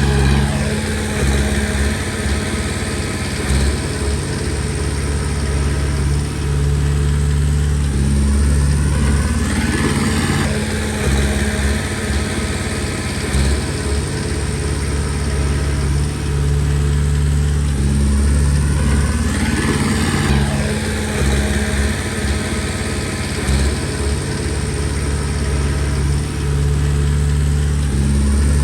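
Komatsu D20P bulldozer's diesel engine running steadily at working speed, with its sound swelling and falling back about every ten seconds as the machine cycles through its pushes.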